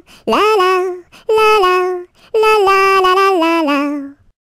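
A solo voice singing a children's melody on 'la', unaccompanied, in three phrases; the last and longest steps down in pitch to close the song and stops about four seconds in.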